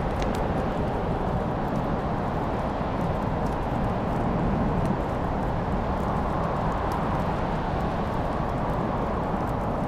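Wood fire burning in a fireplace: scattered sharp crackles and pops over a steady low rushing noise.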